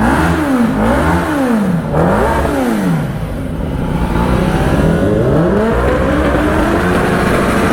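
Kawasaki Ninja ZX-10R's inline-four engine revved hard at a standstill through its exhaust, the revs snapping up and dropping back several times in quick succession, then rising more slowly and holding steady near the end.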